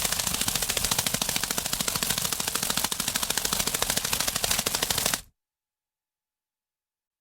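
A rapid, even rattle of sharp clicks for about five seconds that cuts off suddenly, followed by silence.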